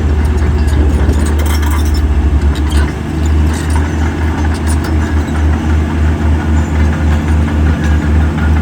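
Heavy diesel engine of earthmoving machinery running with a loud, pulsing low throb. The throb is rapid at first, then settles to about three pulses a second, with some metallic clanking in the first couple of seconds.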